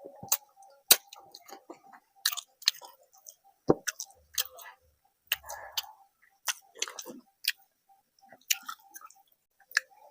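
A person chewing a meal of rice and curry close to the microphone, with irregular wet smacks and sharp mouth clicks several times a second, a few of them louder.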